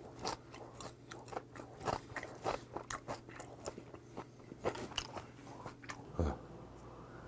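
Close-miked chewing of a mouthful of food: irregular crunchy, wet clicks several times a second, with a heavier low thump about six seconds in.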